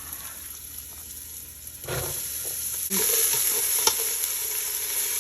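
Diced vegetables sautéing in olive oil in a pot, sizzling steadily while being stirred. There is a soft bump about two seconds in, and the sizzling gets louder from about three seconds in.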